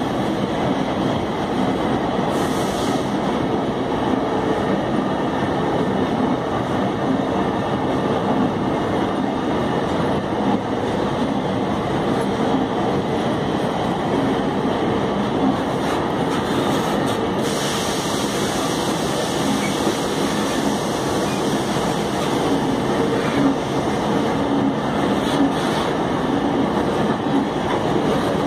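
Empty iron-ore freight wagons rolling steadily past on the track, the wheels on the rails making an unbroken running noise.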